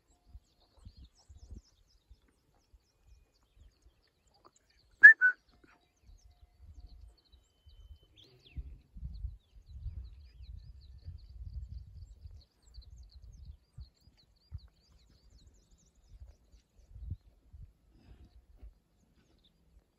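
A bird gives two short, sharp calls in quick succession about five seconds in. Otherwise there is only a faint, uneven low rumble that comes and goes, heaviest in the middle.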